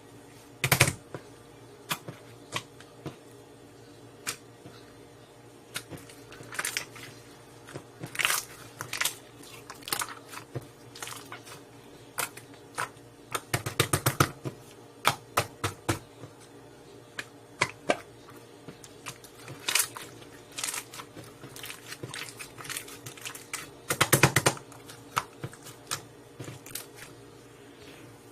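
Slime being squeezed and pressed by hand, making irregular sticky clicks and pops, with quick runs of crackling clicks about halfway through and again near the end.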